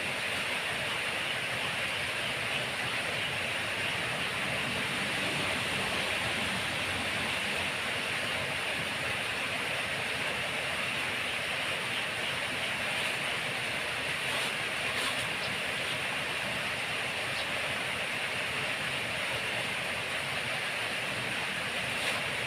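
Steady hiss of falling rain, even throughout, with a few faint clicks.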